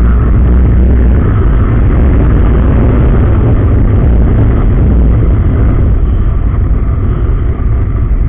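Yamaha R15M's single-cylinder 155 cc engine and exhaust running loud while the bike is ridden, with a heavy, steady low rumble.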